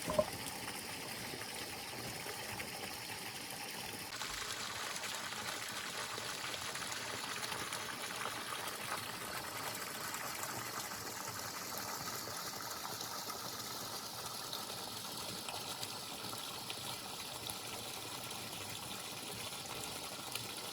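Water running steadily in a continuous trickling, pouring rush, with one short knock at the very start.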